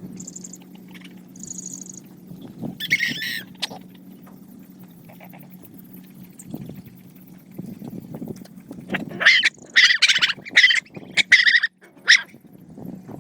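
Puppies yelping and whining in high-pitched cries: a single cry about three seconds in, then a rapid run of loud yelps near the end, over a low steady hum.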